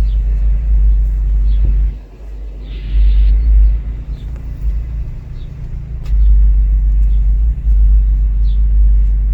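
Deep car engine and road rumble heard from inside a moving car, swelling and easing, with a dip about two seconds in.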